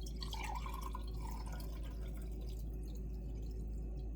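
Chicken broth being poured and dripping for about the first second, then a steady low hum.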